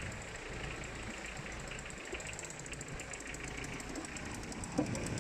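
Dirt bike engine running steadily at low revs, a rapid even ticking clatter with no revving.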